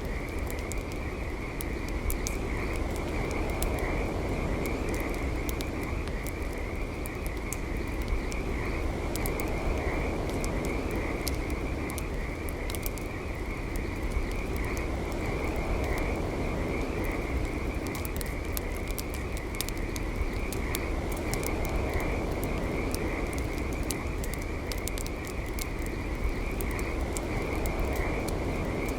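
Campfire crackling, with many sharp pops scattered through, over a steady, dense chorus of high, rapidly pulsing calls that never lets up.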